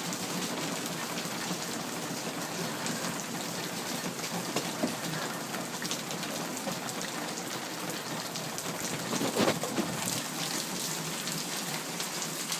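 Heavy rain mixed with hail pelting down in a severe hailstorm: a dense, steady hiss of countless small impacts, with a brief louder swell about nine seconds in.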